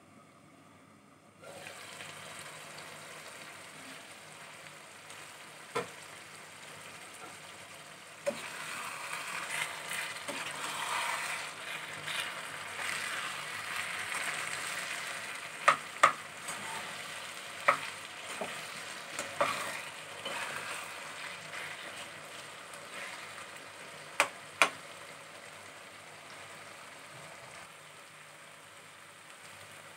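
Eggplant and tomato bharta sizzling in a frying pan while a ladle stirs it. The sizzle starts about a second and a half in and is loudest in the middle, with several sharp clinks of the ladle against the pan.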